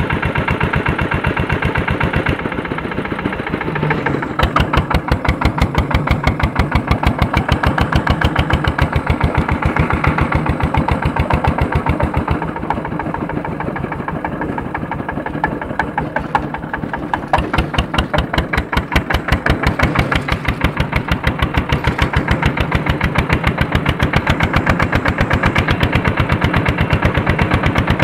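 Andoria S-231 diesel engine of a tractor running under load while harrowing, a steady train of sharp, distinct exhaust beats. It eases off briefly twice and then picks up again.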